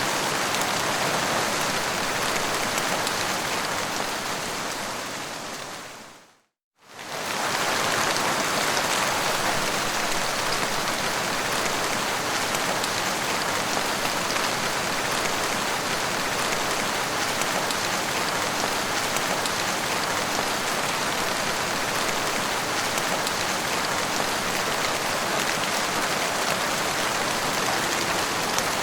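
Steady, dense rain falling. About six seconds in it fades out to a moment of silence, then fades straight back in.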